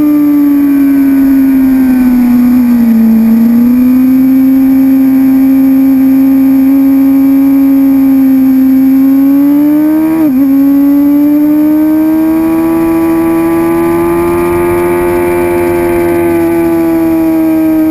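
Suzuki GSX-R750 inline-four engine running hard at high revs. Its pitch sags and recovers about three seconds in, breaks briefly about ten seconds in, then climbs slowly before easing off near the end.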